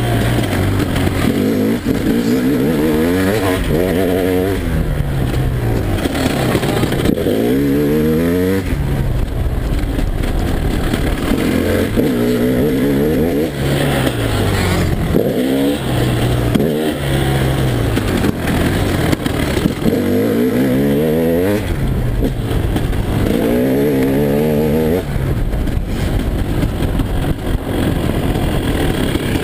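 Single-cylinder two-stroke engine of a 2011 KTM EXC 300 enduro bike being ridden hard. Its pitch climbs as it revs up and then drops sharply, about six times, with rough running at lower revs in between.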